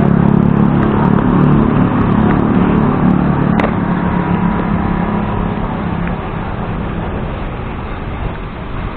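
A motor vehicle engine running with road and wind noise; its low hum fades away over the second half, and there is a single sharp click about three and a half seconds in.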